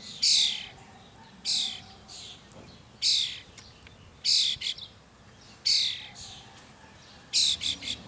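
Fledgling bird giving a series of loud, raspy, high calls, about one every second and a half. Each call falls slightly in pitch, and some are followed by one or two short clipped notes.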